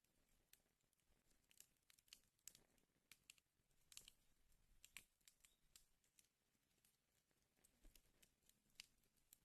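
Wood fire in a fireplace crackling faintly: irregular small pops and snaps, several a second, over a soft hiss.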